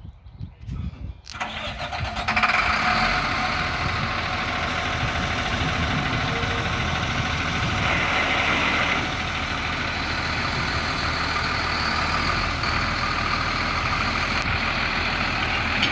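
Diesel engine of a crane truck starting about a second in, then running steadily.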